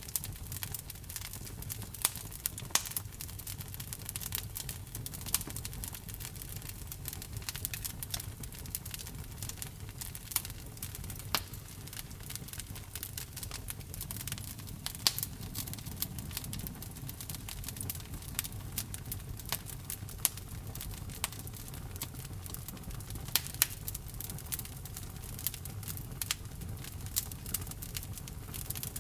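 Wood fire in a fireplace crackling and popping at irregular moments, a few pops sharper than the rest, over a steady low rumble of the flames.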